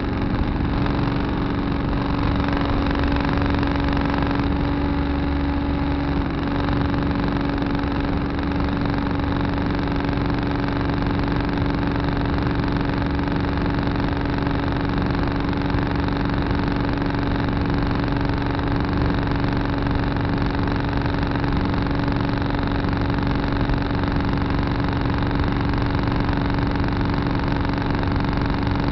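Tractor engine running at a steady speed, heard from the cab: a constant drone with a strong, even hum.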